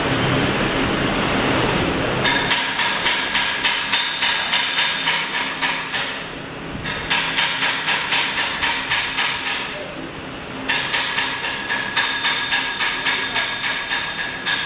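A hammer striking steel in quick, even blows, about three a second, each blow leaving the metal ringing. The blows pause briefly twice, about six and ten seconds in.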